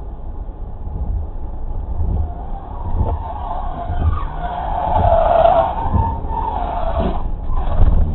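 Car tyres skidding on the road, a squeal that swells to its loudest about five seconds in and fades, over a steady road rumble. Several thumps come through it, the loudest just before the end.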